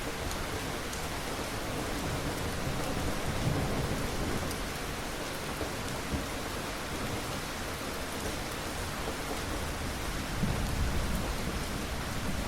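Steady rain, an even hiss, with two low rumbles swelling under it, one about three seconds in and one near the end.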